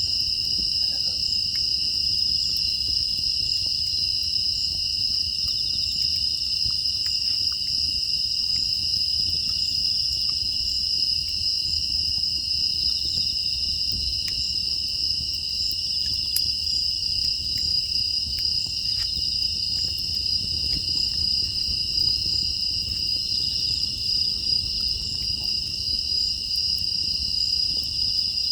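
A steady, high-pitched chorus of grass insects chirring without a break, with scattered faint crackles, like those of the wood fire, and a low rumble underneath.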